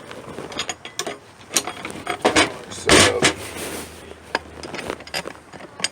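Handling of a DeWalt DCS350 cordless threaded rod cutter and threaded rod: a run of sharp metal clicks and knocks, with a louder burst about three seconds in and a low hum under it for about a second and a half.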